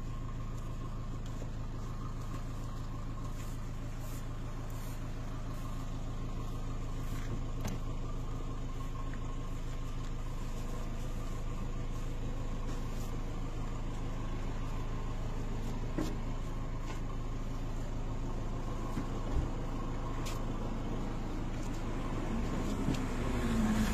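Car engine idling, a steady low hum with a faint even tone above it; a couple of faint clicks come through about two-thirds of the way in.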